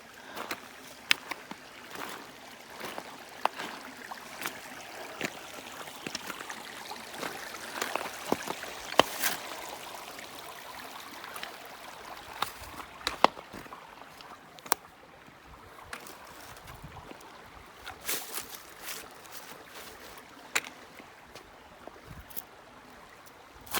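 A creek running steadily, with irregular crunching footsteps on the bank; the water grows a little fainter about halfway through.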